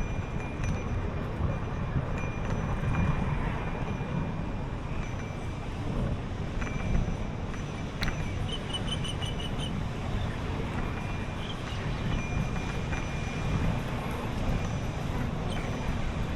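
Steady wind and road rumble on the microphone of a camera riding along on a bicycle. About eight seconds in there is a sharp click, then a quick run of about six short high pips.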